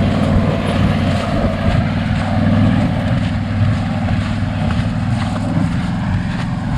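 Tractor engine running steadily, powering a forage chopper box as its unloading chain runs the load out, with a few faint clanks over the drone.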